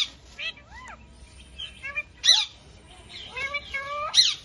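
Alexandrine parakeets calling: short, loud screeches at the start, in the middle and near the end. Between them come a brief rise-and-fall whistle about a second in and a run of rising calls in the last second and a half.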